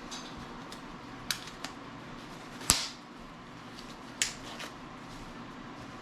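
Kitchen utensils and dishes being handled: about five sharp clicks and knocks, the loudest a little under halfway through, over a steady low background hum.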